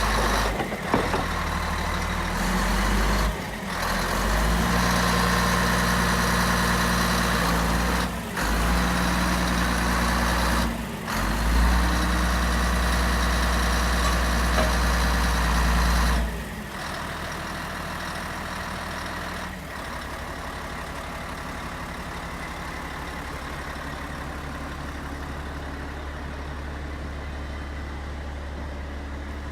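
Komatsu D155AX-5 bulldozer's diesel engine running at high revs, dipping briefly three times. About 16 seconds in it drops to a lower steady idle, and it settles a little lower again around 20 seconds.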